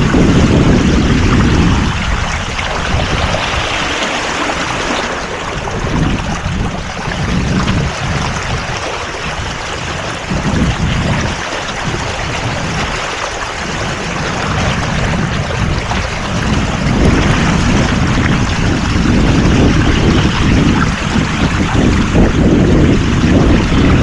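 Wind buffeting the microphone over the wash of water aboard a sailboat under way, the low gusting rumble strong at first, easing in the middle and building again in the second half.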